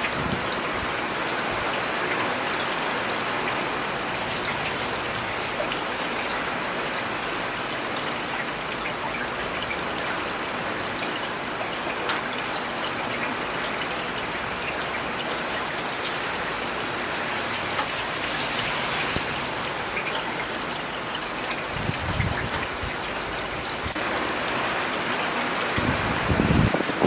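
Steady rain falling, a dense even hiss of drops on hard surfaces, with two brief low rumbles near the end.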